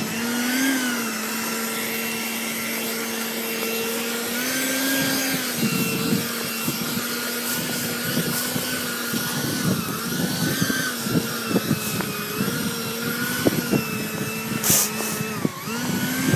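Electric ducted fan of an E-flite F-4 Phantom model jet, whining at a steady pitch that rises and dips a little with the throttle. Irregular rustling knocks join it from about five seconds in.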